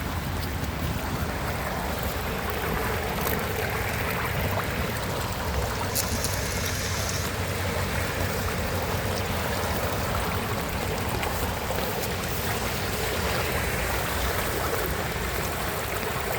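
Floodwater draining steadily down a clogged-then-cleared storm drain in a whirlpool, flowing freely now that the leaves blocking it have been broken loose.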